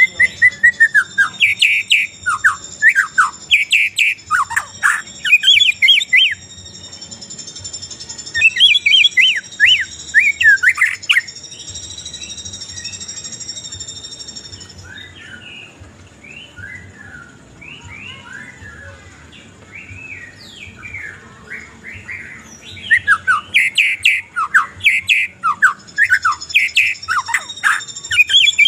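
A songbird sings in loud bursts of rapid, sharply sliding whistled notes. There is a quieter stretch in the middle, and the song comes back loud near the end. Steady high-pitched tones run beneath the first half.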